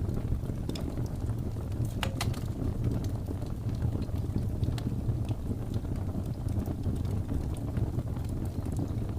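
Wood fire in a fireplace crackling, with scattered short pops, one sharper about two seconds in, over a steady low rumble of blizzard wind.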